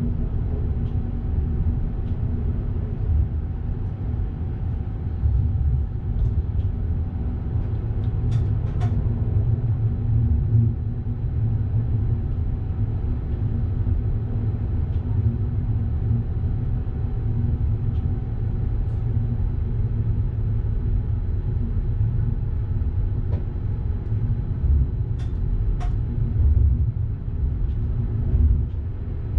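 Electric passenger train running, heard from the driver's cab: a steady low rumble with faint steady tones, and a few short sharp clicks about a third of the way in and again near the end.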